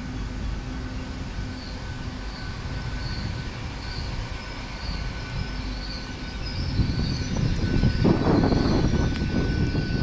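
GWR Hitachi Intercity Express Train standing at a platform, its engines and equipment running as a steady rumble with a high whine. The rumble grows louder from about seven seconds in.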